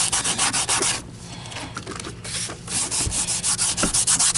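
Quick back-and-forth scrubbing strokes on the body of an Electrolux canister vacuum as its scuffed housing is cleaned, with a softer stretch about a second in.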